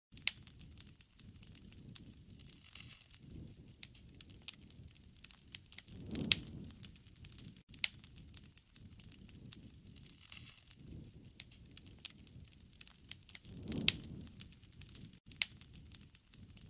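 Wood campfire crackling: sharp pops and snaps at irregular intervals over a low rumble of burning flames that swells up twice.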